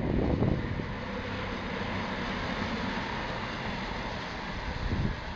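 CrossCountry Voyager diesel-electric multiple unit running past, a steady mix of underfloor diesel engine and wheel-on-rail noise.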